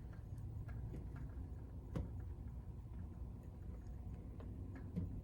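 Quiet room tone with a steady low hum and a few faint scattered clicks, one a little sharper about two seconds in.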